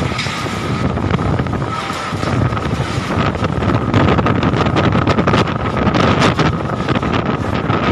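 Storm wind gusting with heavy rain, the gusts buffeting the microphone, with a faint steady high whistle underneath.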